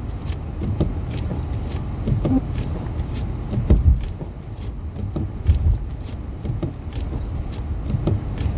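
A vehicle driving on a snowy highway: a steady low rumble of road and wind noise, with a few dull low thumps.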